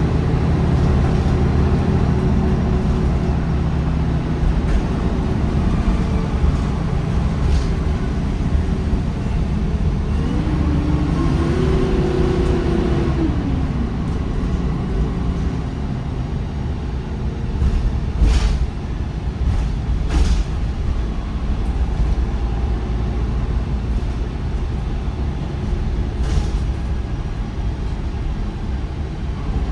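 MAN D1556LOH horizontal six-cylinder diesel engine of a MAN 19.360 bus with a ZF Ecolife automatic gearbox, running steadily. Around twelve seconds in a whine rises and falls, and a few short sharp noises come near the middle and later on.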